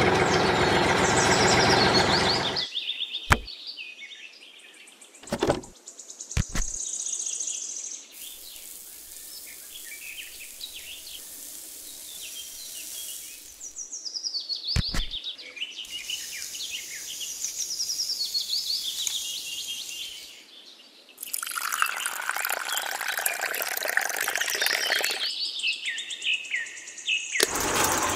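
Birds chirping in short falling calls throughout, broken by several stretches of steady rushing noise and a few sharp clicks.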